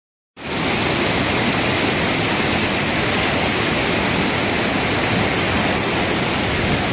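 Waterfall pouring close by: a loud, steady rush of falling water that starts abruptly about a third of a second in.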